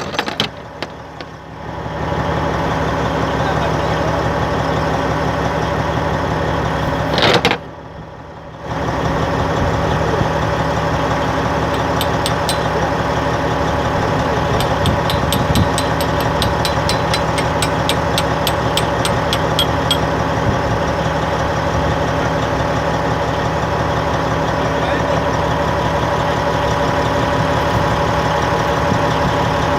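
Cat D10N bulldozer's diesel engine running steadily at idle. A fast run of light ticks comes in about twelve seconds in and lasts several seconds. The level drops briefly twice, once just after the start and once about eight seconds in.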